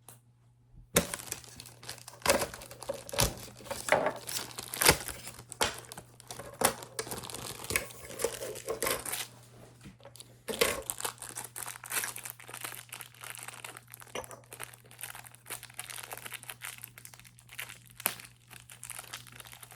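Plastic wrapping on small model airplane parts crinkling and crackling as it is handled and unwrapped. The sound starts about a second in, with a short lull about halfway through.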